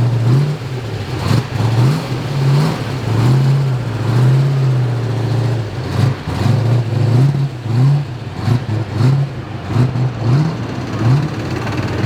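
Ford Boss 429 big-block V8 in a 1970 Mustang, blipped repeatedly: short rises in revs that fall straight back, about one or two a second, with a steadier stretch a few seconds in.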